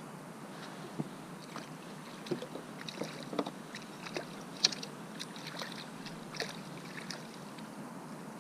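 A string of irregular knocks and clicks, the loudest a little past halfway, over a steady wash of water and wind, as a small snapper is reeled in to a kayak.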